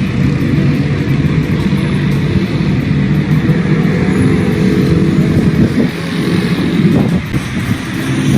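A motor vehicle running, with a steady low engine hum over a constant rushing noise.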